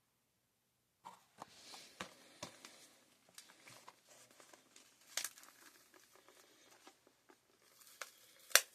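Hot Wheels Car Culture blister pack being handled: faint plastic-and-card crinkling with scattered sharp clicks, starting about a second in, with a louder click near the end.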